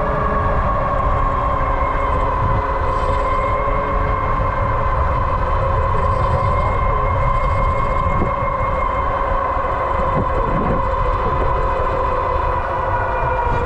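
Electric bike motor whining steadily at speed, a high, even tone, with wind rumbling on the microphone.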